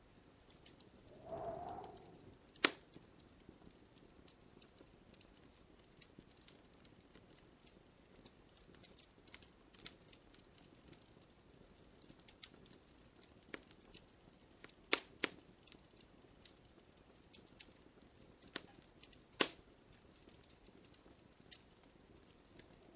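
Wood fire crackling in a fireplace: a steady scatter of small ticks and snaps, with three sharper pops near 3, 15 and 19 seconds in, over a faint hiss. A brief low tone sounds about a second and a half in.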